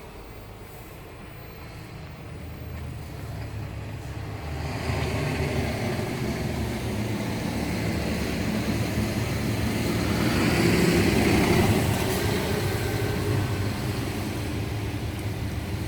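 Scania R 490 tractor unit's 13-litre straight-six diesel running, with a steady low engine drone. From about four seconds in it grows louder and fuller, loudest a little past ten seconds, then eases off again.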